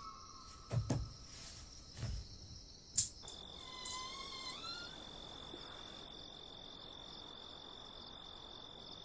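Crickets chirring, a steady high night-time drone. In the first three seconds there are a few soft thumps and then one sharp click, the loudest sound here.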